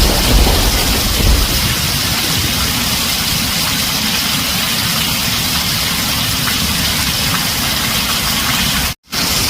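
Heavy rain drumming steadily on a tin roof, with the low rumble of thunder dying away in the first second or so. The sound cuts out for a split second near the end, then the rain resumes.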